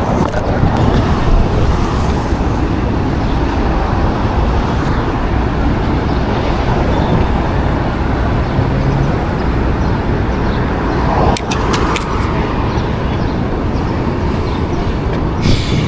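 City street traffic noise: a steady wash of passing cars and engines, with a few sharp clicks about eleven and twelve seconds in.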